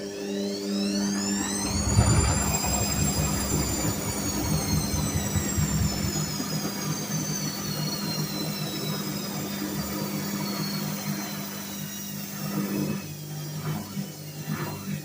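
Whirlpool washing machine motor running up: a whine that rises for about two seconds and then slowly falls away, over a steady hum and a low rumble of the drum early on. About thirteen seconds in, the hum stops and uneven knocks and pulses follow.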